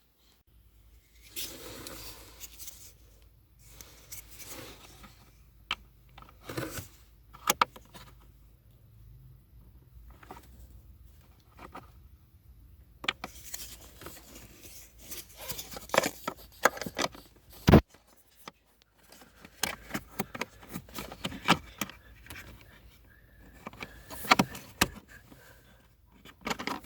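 Hands working on the small plastic parts of a car's flap positioning motor: irregular clicks, taps and short scraping and rattling noises, with one sharper click a little past halfway.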